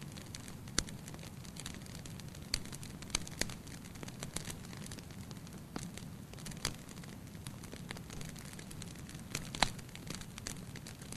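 Fire burning in a fireplace, crackling with irregular sharp pops over a steady low rumble. A few pops stand out, the loudest about three-quarters of the way through.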